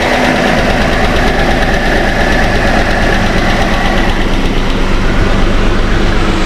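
Jeep Wrangler's freshly swapped 3.6-litre Pentastar V6 idling steadily but rough with a misfire, which the owner suspects is a hydraulic valve lash adjuster still holding air.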